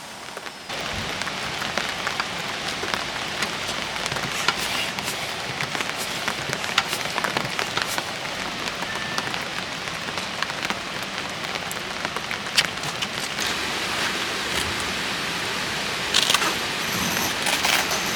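Steady rain, with many individual drops ticking sharply, a few louder clusters of drops near the end.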